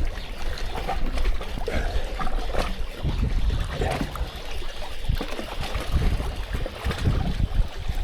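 Strong wind buffeting the microphone, with water splashing and trickling.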